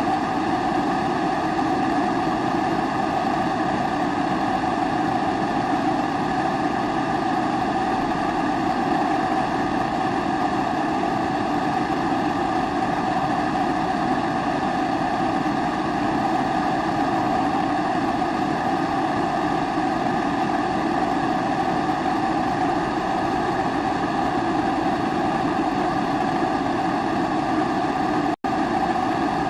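Pressurized kerosene primus stove burner running with a steady, even rushing flame sound, broken for an instant near the end.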